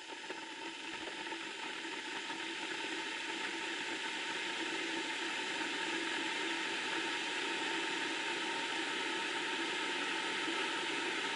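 Kettle heating water: a steady hiss and rush that slowly grows louder as the water nears the boil.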